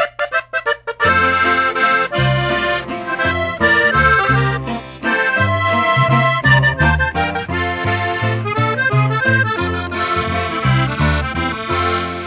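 Norteño music with no singing: an accordion plays an instrumental passage over a bass line. It opens with a few short, clipped chords, and the flowing melody takes over about a second in.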